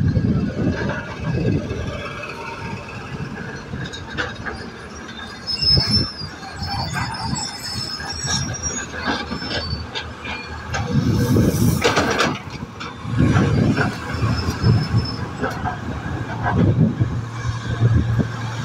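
Train running slowly along the track, wheels rumbling and knocking over the rails, with some high squealing from the wheels in the first half. Near the end a steady low engine hum joins in.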